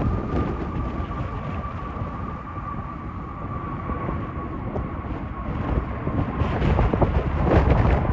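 British Airways Airbus A320's jet engines at go-around power as it climbs away, a deep rumble with a thin high whine that slowly falls in pitch and fades. Strong wind buffets the microphone, the gusts getting louder near the end.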